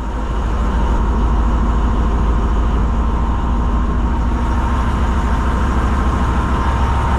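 Heavy diesel machinery engine running steadily with a deep rumble and a thin, constant high whine.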